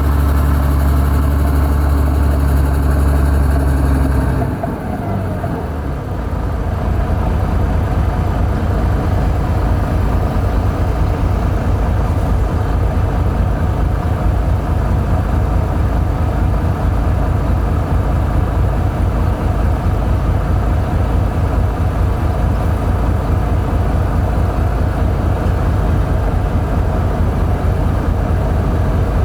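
Heavy diesel engine of earthmoving equipment running steadily. About four and a half seconds in, the smooth low drone gives way to a rougher, pulsing engine sound.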